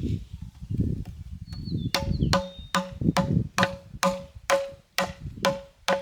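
Hammer blows on a screwdriver driven into a tractor tire's bead to break the steel bead wire. About two seconds in, duller knocks give way to regular sharp strikes a little over two a second, each with a short metallic ring.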